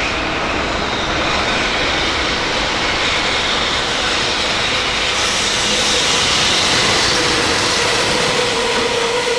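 Electric freight train running past with a steady rush of wheel and car noise. A steady squeal-like tone joins in from about six seconds in.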